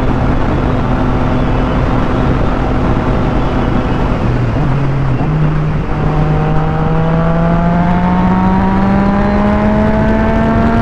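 Motorcycle engine under way with heavy wind noise over the rider's microphone; the engine note steps up twice around the middle, then rises steadily as the bike accelerates through the second half.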